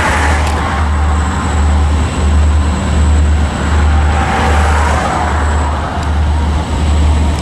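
Freight cars of a manifest train rolling past with a steady low rumble.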